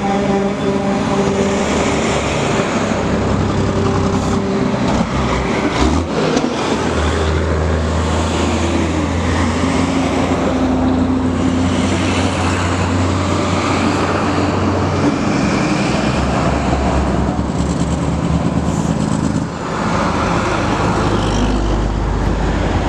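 Heavy diesel trucks running in a passing convoy: a steady, loud low engine drone over road noise.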